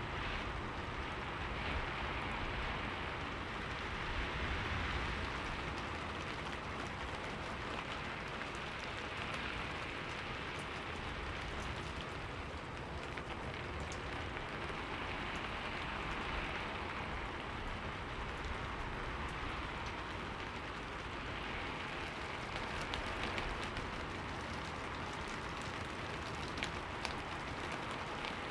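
Steady rain falling on a window, the patter gently swelling and easing every few seconds, with a low rumble underneath.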